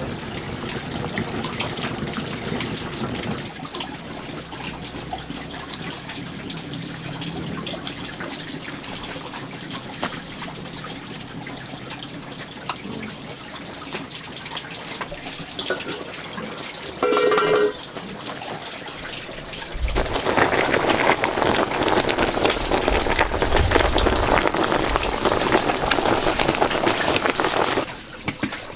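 Water running and splashing, steady at first and then louder and fuller for the last several seconds, with a brief pitched call about two-thirds of the way through.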